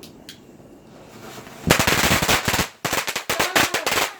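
Firecrackers going off in a rapid, irregular string of sharp pops and cracks, starting about a second and a half in, several lit at the same time.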